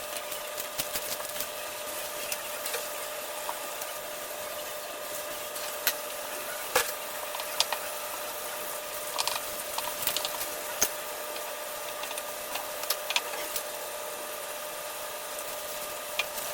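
Scattered light clicks and taps from hands pressing and patching pre-made pie crust into a pie dish, over a steady background hiss with a faint hum.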